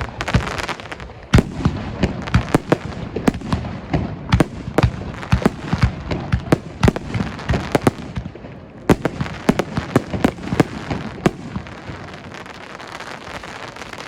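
Fireworks bursting overhead at close range: small aerial shells and crackling reports in quick succession, several sharp bangs a second. The barrage eases briefly about eight seconds in, picks up again, then thins out near the end.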